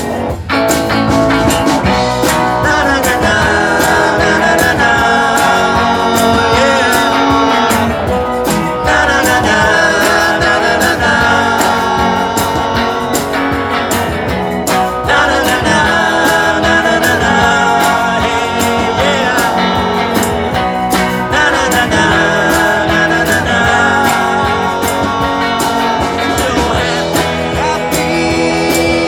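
A live band playing a rock-and-roll song, with guitar and a steady drum beat.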